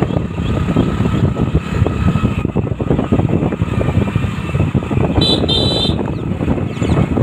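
Wind buffeting the microphone, a loud uneven low rumble, with two short high chirps about five seconds in.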